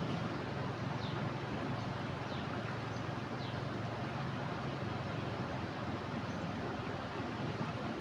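Steady rush of fast-flowing floodwater in a swollen river, with a few faint, short high chirps over it.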